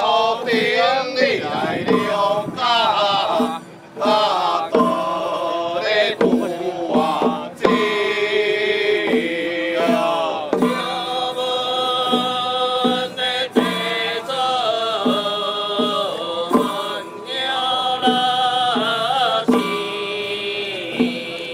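Ritual music: chanted or sung lines with a wavering melody over steady, evenly spaced percussion strokes.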